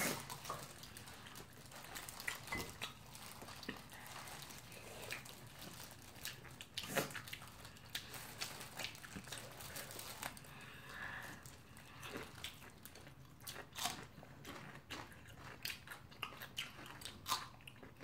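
Close-up sounds of two people biting and chewing sauced fried chicken: wet chewing with scattered short crunches and clicks, the sharpest about seven seconds in and again near the end.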